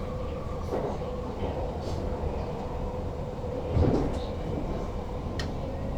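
Electric commuter train (NS Sprinter Lighttrain) running, heard from the driver's cab as a steady hum with a held tone over a low rumble. A low thump comes a little before four seconds in, and a short click follows near the end.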